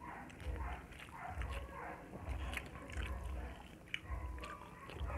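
Close-miked chewing of mouthfuls of pork and rice, with wet lip-smacking clicks over a regular rhythm of low jaw thuds.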